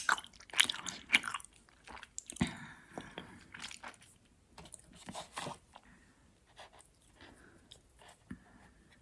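Close-miked chewing of gummy worms: sticky, wet mouth clicks and smacks. They come thick and fast for the first several seconds, then thin out and grow fainter near the end.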